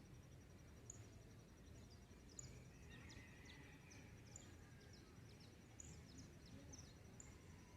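Faint dawn chorus: scattered short, high bird chirps over a steady, rapidly pulsing high trill, with a low background rumble.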